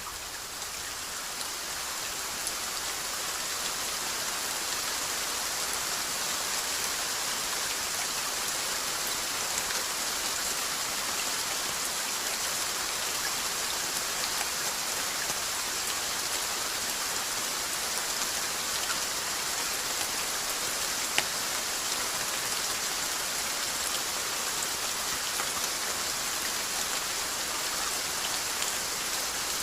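Steady rain falling, a dense even patter of drops on a surface. The level dips briefly at the start and builds back over a few seconds, and one sharp drop-tap stands out about two-thirds of the way through.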